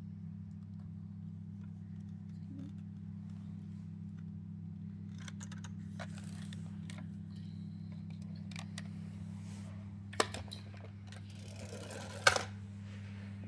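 Small toy cars being handled, with light clicks and rattles and two sharper knocks near the end, over a steady low hum.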